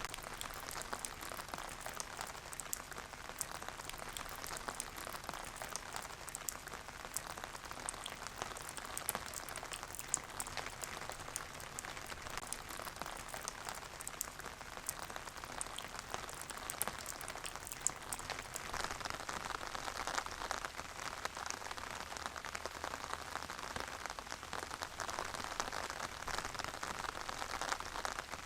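Steady rain falling, a continuous patter with many fine drops ticking on hard surfaces.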